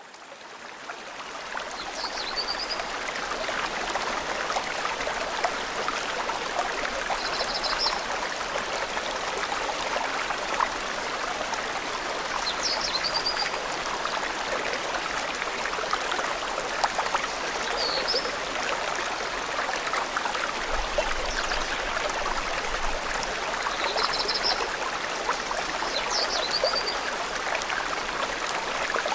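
Forest stream flowing steadily, fading in over the first couple of seconds, with a bird's short high chirps every few seconds above the water.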